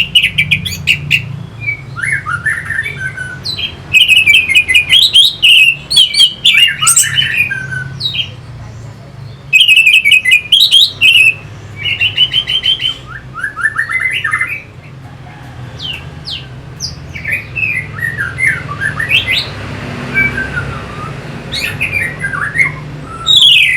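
Orange-headed thrush singing: a varied run of short phrases made of rapid repeated notes, quick sweeping whistles and some harsh notes, broken by brief pauses.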